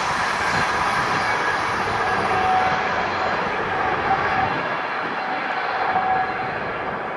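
Train passing close by: a steady rush and rumble of wheels on the rails, with a faint thin whine laid over it.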